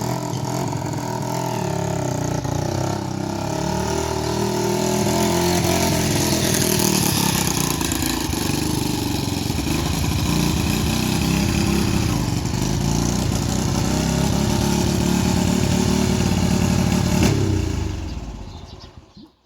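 Motorcycle engine running steadily at a high level, then dying away near the end.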